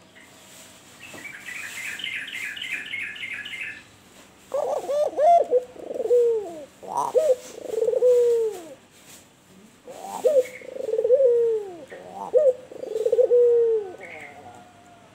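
Albino puter dove (domestic collared dove) cooing its kuwor-bekur song: two long, low, wavering coo phrases of about four seconds each. The first begins about four seconds in, and both come after a brief burst of quick, higher-pitched chirping.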